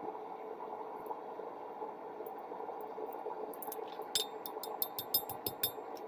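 Steady roar of a propane forge burner. About four seconds in, a quick run of light, ringing hammer strikes on steel at the anvil begins, several blows a second.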